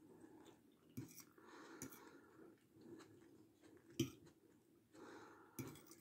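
Close-up chewing of a mouthful of chicken strogonoff with rice and crispy shoestring potatoes, with a few sharp clicks of a metal fork against the plate, the loudest about four seconds in.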